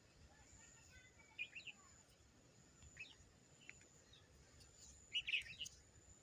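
Faint outdoor bird chirps: a few short, scattered calls, the loudest cluster about five seconds in, over a thin steady high tone.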